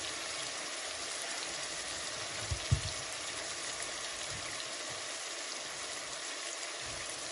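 Onion-tomato masala sizzling steadily in hot oil in a steel kadai, with one brief low knock a little under three seconds in.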